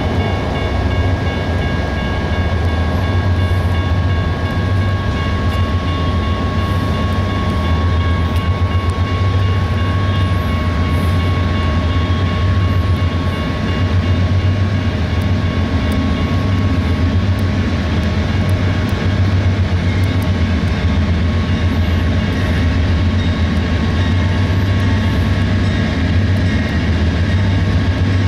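CSX intermodal freight train rolling past, a loud steady rumble of wheels on rail with a few thin steady high tones above it.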